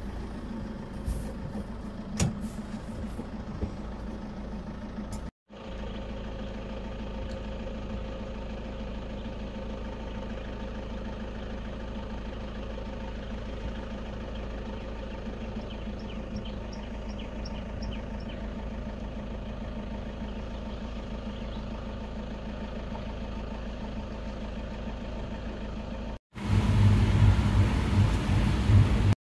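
Safari vehicle's engine running steadily at idle, with two abrupt cuts. After the second cut, in the last few seconds, it is louder and rougher.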